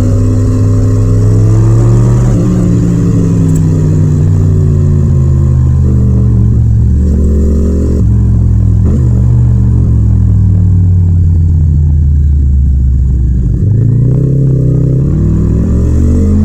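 Yamaha MT-07's 689 cc parallel-twin engine pulling while under way. Its pitch climbs and then drops several times as it runs up through the revs and the rider shifts or rolls off. Near the end it falls away briefly, then builds again.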